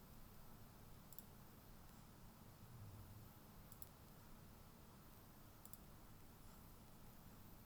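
Near silence with a low room hum and three faint computer mouse clicks, a couple of seconds apart.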